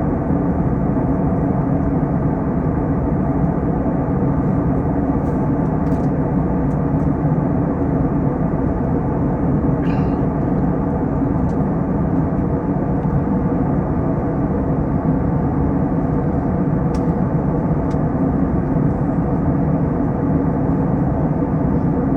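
Steady drone of an Airbus A321 airliner in flight, engines and airflow as heard in the cabin, with a few faint clicks.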